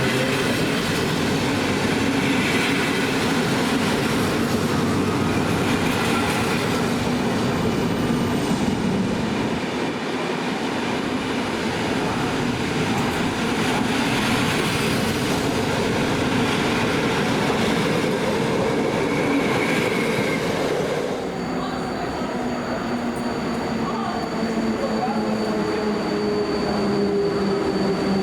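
A train moving through the station, with whining tones that slide up and down in pitch over the rumble of the running gear. A steady high whine sets in about three-quarters of the way through.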